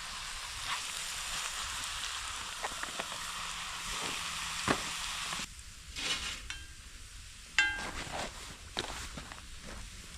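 Vegetables frying in olive oil in a cast-iron mini wok over a campfire: a steady sizzle with small pops. The sizzle drops away sharply about halfway through, then a few light clinks and one short metallic ring follow.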